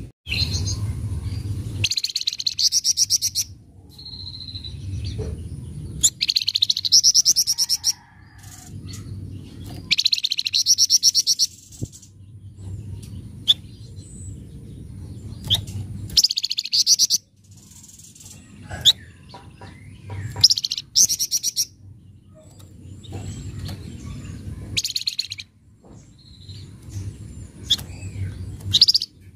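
Flamboyan bird giving harsh, rapid chattering calls ('crewet kasar') in bursts of one to two seconds, repeated every few seconds, over a low rumble.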